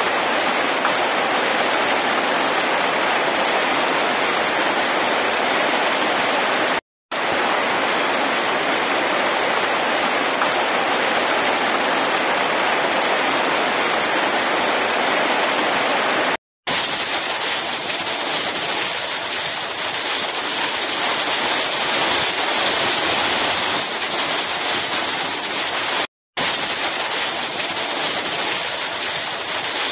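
Heavy rain pouring steadily onto pavement and leafy hop vines, a dense even hiss. The sound cuts out for an instant three times.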